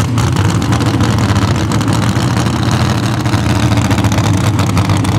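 Mini rod pulling tractor's engine running loud and steady.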